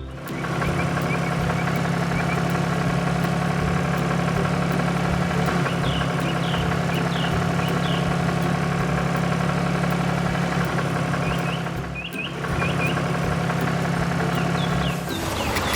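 Cartoon farm vehicle engine sound effect running steadily, with two brief clusters of short high chirps near the middle and about three quarters of the way through.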